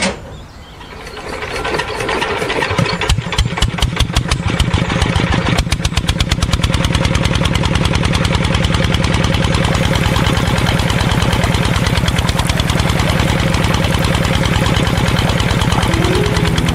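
Small engine, the kind fitted to a mini tractor, starting up: a click, then separate firing pulses that quicken over the first few seconds and settle into steady, even running.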